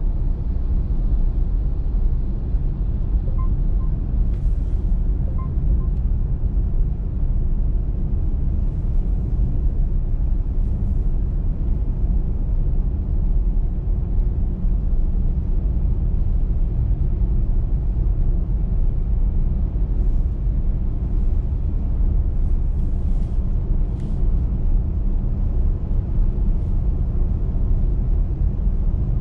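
Car driving on a snowy motorway: steady low road and tyre rumble, with a few brief faint hisses.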